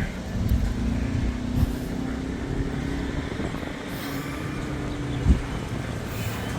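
Motor vehicle engine running nearby: a steady low rumble with a held hum, and a sharp knock about five seconds in.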